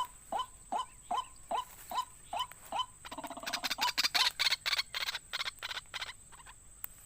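White-breasted waterhen (ruak-ruak) croaking: a regular series of short upward-sweeping calls, about two and a half a second, giving way about three seconds in to scratchier noise and a run of quick clicks.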